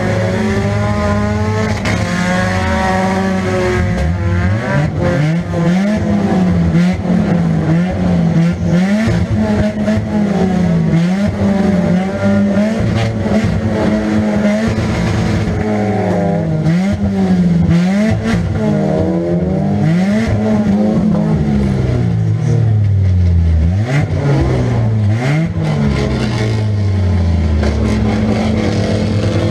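1998 Nissan Pulsar's 1.8-litre four-cylinder engine heard from inside the cabin, revving up and dropping back over and over as the car accelerates and backs off, with clattering knocks throughout.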